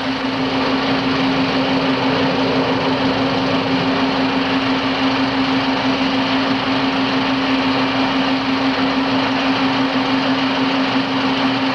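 A steady engine drone with one held low hum, unchanging and loud throughout.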